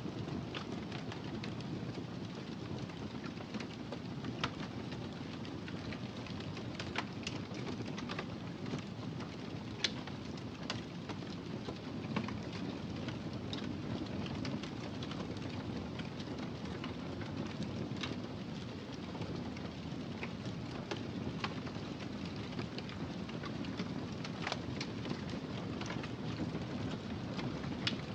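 Wood fire in a fireplace burning with a steady low rumble, broken by scattered sharp crackles and pops.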